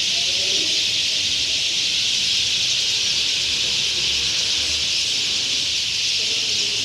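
A large flock of small birds chirping all at once in a dense, unbroken cacophony, steady in level throughout.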